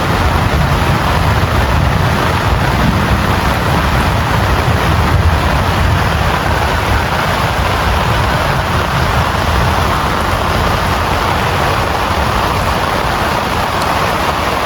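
Heavy rain falling steadily, a dense hiss with a deep low rumble underneath.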